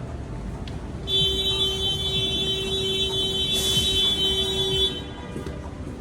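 A vehicle horn sounding one long, steady blast of about four seconds over street traffic noise, with a short hiss partway through.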